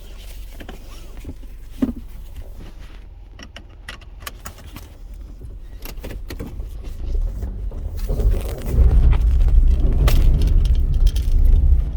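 Jangling and clicking, like keys being handled, then a loud low rumble that builds from about seven seconds in.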